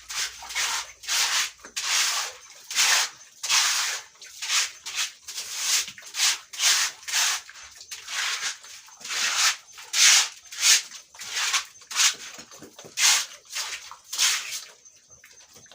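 A broom sweeping the floor of a pig pen in quick, regular strokes, each a short scratchy swish, easing off near the end.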